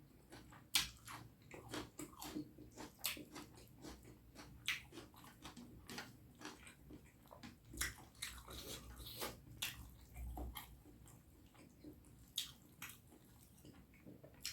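Close-miked eating sounds: wet mouth smacks and clicks of chewing rice and curry, several a second at an uneven pace.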